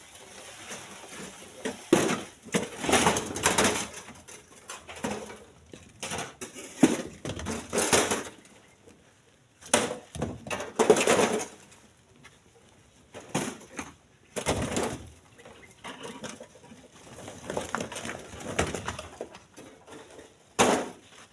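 Split stones knocking and scraping as they are handled and thrown into a truck bed: irregular clattering strikes with short pauses between them.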